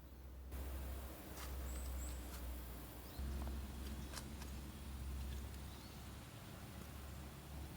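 Quiet outdoor ambience: a steady low rumble with a few short, high bird chirps about two seconds in and scattered sharp clicks.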